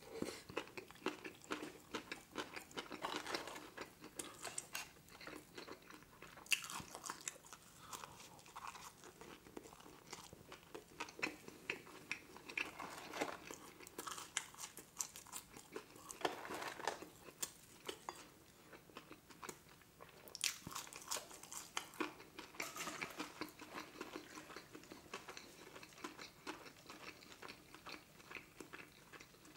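Close-up mouth sounds of a person chewing a burger and French fries with the mouth open: many irregular wet smacks and clicks.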